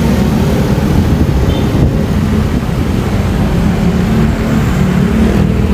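Motorcycle riding along a road: a loud, steady low rumble of engine, tyres and wind.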